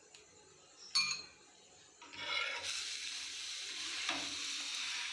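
Oil sizzling on a hot nonstick tawa under an aloo paratha as a spatula presses it down, starting about two seconds in and holding steady. A short click comes about a second in, and a light knock about four seconds in.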